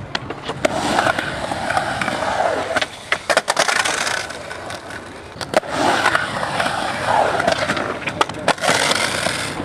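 Skateboard rolling, its wheel noise swelling and fading, with several sharp clacks of the board scattered through.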